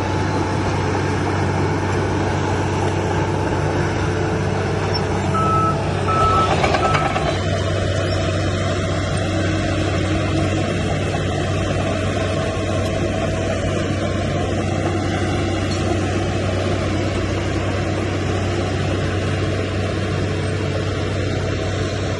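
Heavy diesel engine of earthmoving equipment running steadily, with three short reversing-alarm beeps and a brief louder noisy surge about six seconds in.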